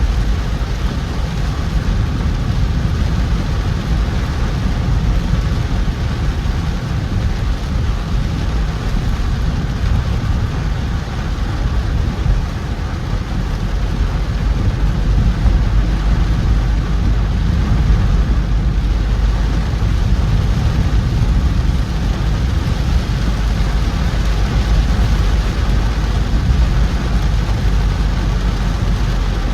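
Car driving in heavy rain: a steady low rumble of engine and tyres with an even hiss of rain and wet road.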